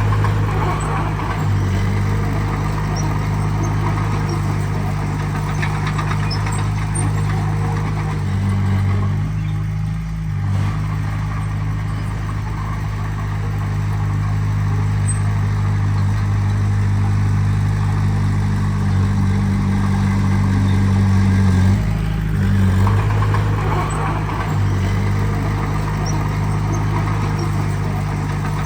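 Heavy earthmoving machine's diesel engine running steadily, its pitch shifting briefly about ten seconds in and again a little past twenty seconds.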